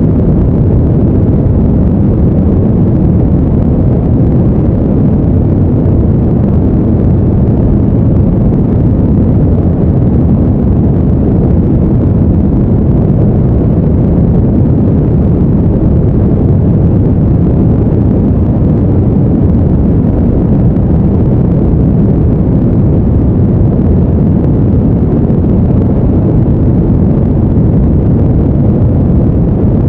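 Steady, deep, even rushing noise with no tones or breaks, weighted toward the low end like brown noise used as a sleep background.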